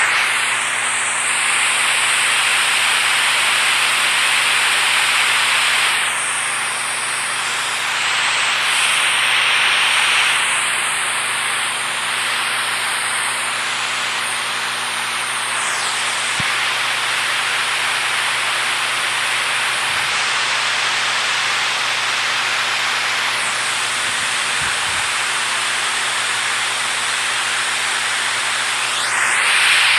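Rushing water: a steady, dense hiss that swells and eases slightly now and then.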